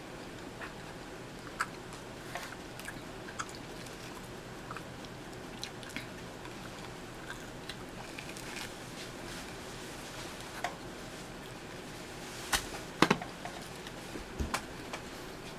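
Close-up chewing and biting of pizza crust: soft, wet mouth sounds with scattered small clicks, and a few louder clicks near the end.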